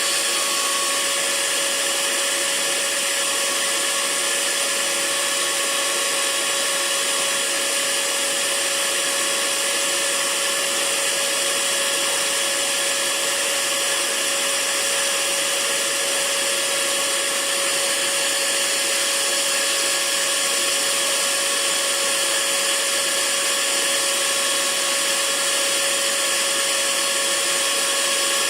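Electric hair dryer running steadily: an even rushing hiss of blown air with a constant motor hum and no change in speed.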